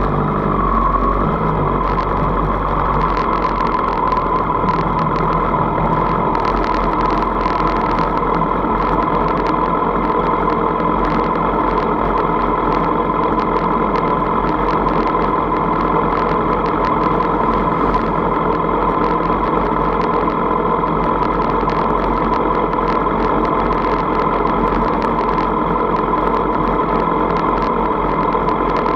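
Sport motorcycle engine idling steadily among other motorcycles idling in a queue.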